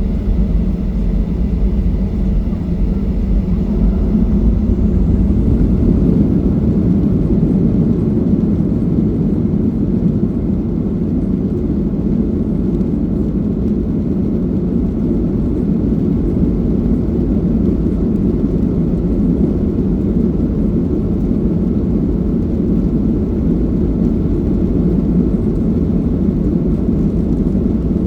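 Boeing 737-800's CFM56-7B turbofan engines running at takeoff power, heard as a steady, loud cabin noise. The deepest rumble eases about four seconds in.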